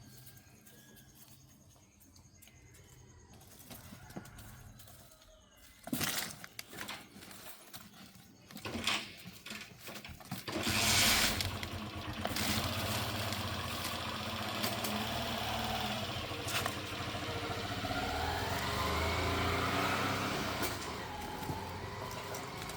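Faint at first, with a few sharp knocks about six to ten seconds in, then a steady engine noise with a low hum that rises in pitch a few seconds before the end.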